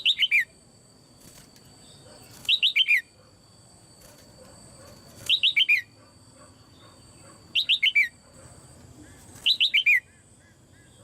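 Caged female red-whiskered bulbul calling: a short phrase of four quick falling notes, repeated five times about every two to three seconds.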